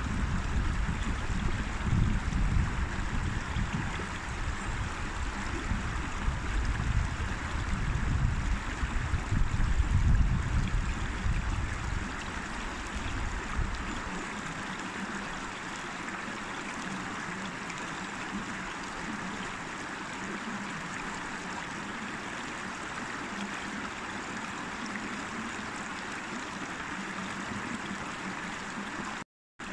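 River water rushing steadily over stones. A low rumble sits under it for about the first dozen seconds, and the sound cuts out for a moment near the end.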